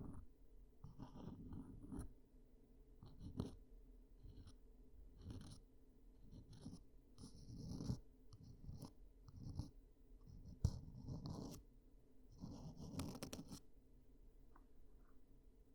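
Ear-cleaning tool scratching and rubbing right against the microphone in short, irregular strokes with brief pauses between them, and one sharp click about eleven seconds in.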